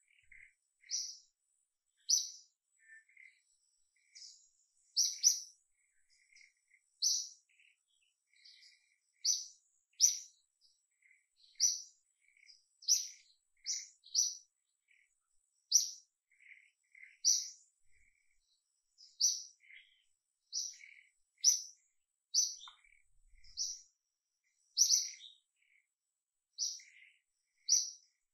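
A bird repeating a short, high chirp about once a second, some calls coming as quick doubles.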